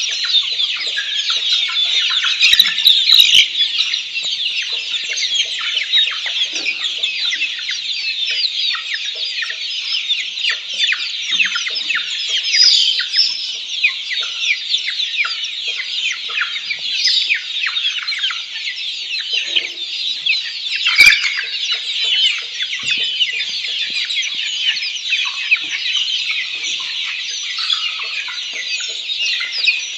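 A flock of black Australorp chickens calling all at once: a dense, continuous chorus of many short, high peeps. A single sharp knock stands out about two-thirds of the way through.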